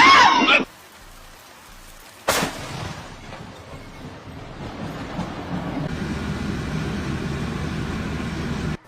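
A brief voice at the start, then a sudden crack about two seconds in, followed by a steady rushing noise that builds and holds before cutting off abruptly near the end.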